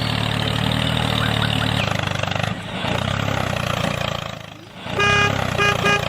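Engine of a motor vehicle running steadily, dipping briefly about four and a half seconds in, then three short horn toots near the end.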